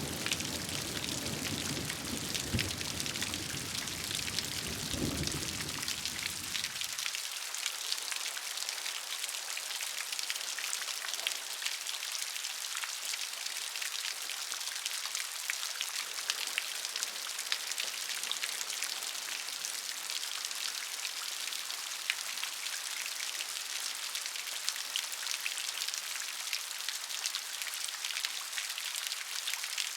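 Steady rain: a dense hiss of falling rain with the patter of individual drops. A low rumble sits underneath for the first several seconds and cuts off sharply about seven seconds in.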